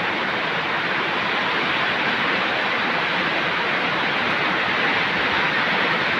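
Rain falling steadily, an even unbroken rush of sound.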